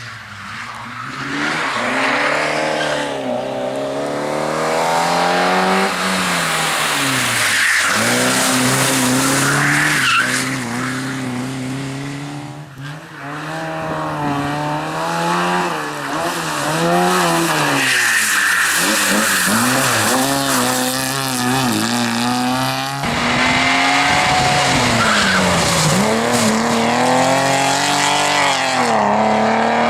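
Competition car engine at full throttle, its pitch climbing and falling again and again as it is driven hard through the gears, with tyre squeal as it slides.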